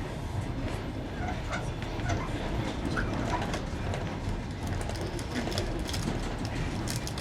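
Passenger train running over jointed rails, heard from aboard: a steady rumble with sharp clicks of the wheels over the rail joints, thickest in the second half.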